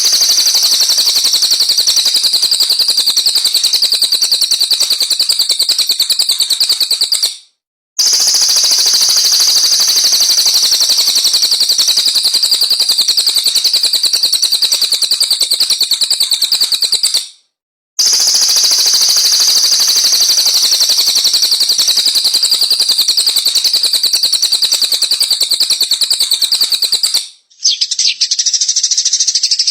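A recorded songbird pouring out dense, rapid, high-pitched chattering song, looped as a tutoring track. Short breaks come about every ten seconds, and a different recording begins near the end.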